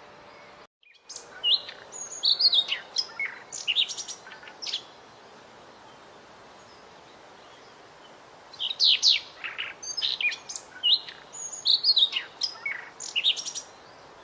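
White-rumped shama (murai batu) singing: two bouts of fast, varied whistled phrases, the first starting about a second in and the second after a pause of several seconds, over a faint steady hiss.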